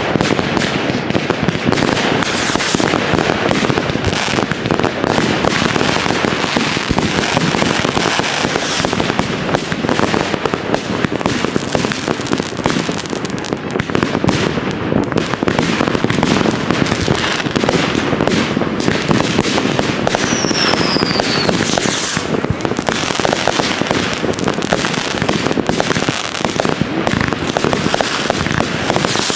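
New Year's Eve fireworks: a dense, unbroken barrage of bangs and crackling from many rockets and firecrackers going off at once. A brief falling whistle cuts through about twenty seconds in.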